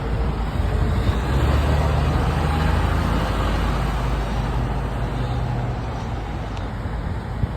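Heavy fire truck engine running with road noise, getting louder about a second in and then easing off as it drives by.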